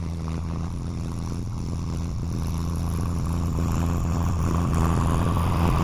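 Mahindra Yuvo Tech Plus 405 DI tractor's diesel engine running steadily, growing gradually louder.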